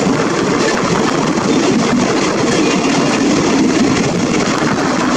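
Freight train of tank wagons passing close by at speed: a steady, loud noise of steel wheels running on the rails.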